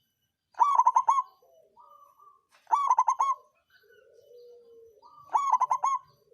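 Zebra dove (perkutut) cooing: three phrases, each a quick run of four or five notes followed by a softer, lower drawn-out coo. This is used as a lure song to get other perkutut cooing.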